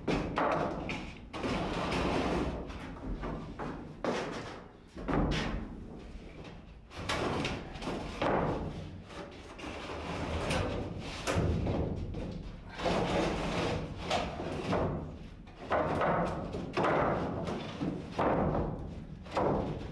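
A run of irregular thumps, knocks and scraping bangs, one after another.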